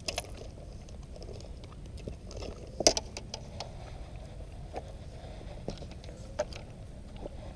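Handling noise from setting up an inflatable kayak and fishing gear: a few scattered knocks and clatters, the loudest about three seconds in, over a steady low rumble.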